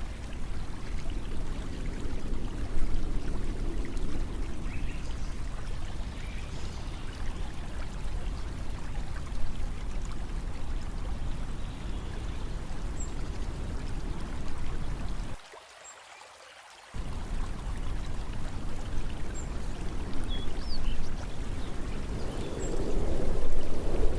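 Steady rushing water, like a flowing stream. It drops out abruptly for about a second and a half about two thirds of the way through, then resumes, with a few faint high chirps near the end.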